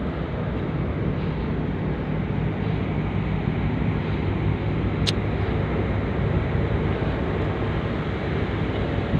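A ferry's engines running with a steady low drone and hum, heard from on board. A single sharp click about five seconds in.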